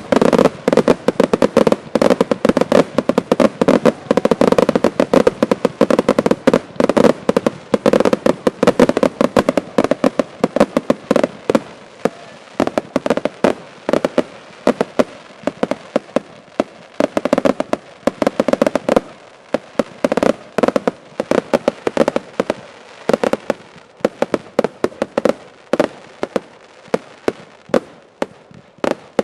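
Fireworks finale: a dense, rapid barrage of bangs and crackles, thinning after about nineteen seconds into more spaced-out bangs.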